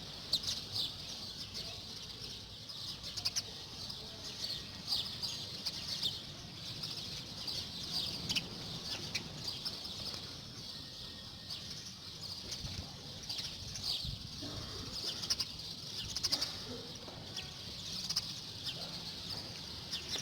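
Many small songbirds chirping together, a dense run of short, high, overlapping chirps with no pause.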